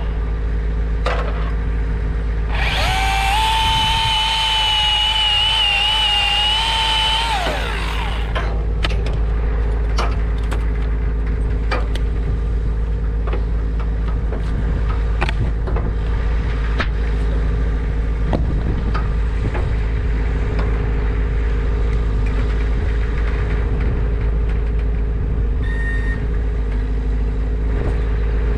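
An engine idling steadily throughout. A chainsaw runs at full throttle for about five seconds from a few seconds in, cutting wood. Scattered sharp clicks and knocks follow.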